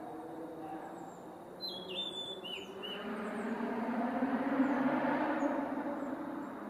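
A male blue-and-white flycatcher sings one short phrase of clear whistled notes about two seconds in. A low rumble swells under it, loudest near the end, then fades.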